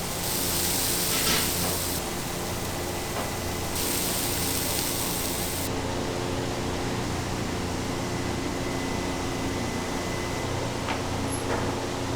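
Steady hum and hiss of running machinery, broken by two bursts of high hissing, each about two seconds long, one at the start and one about four seconds in.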